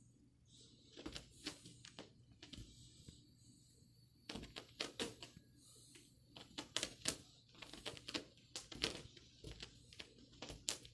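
A cat's paws and claws tapping, scrabbling and thumping as it chases a laser pointer's dot: irregular clusters of quick clicks and soft knocks.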